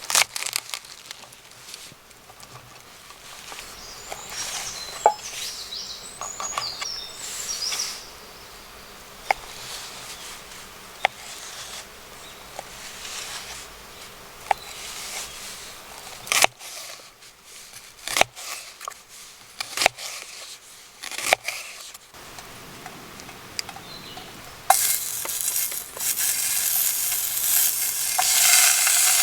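Scattered clicks and knocks of cooking gear being handled, then about 25 seconds in, food starts sizzling loudly in a hot pan and keeps frying.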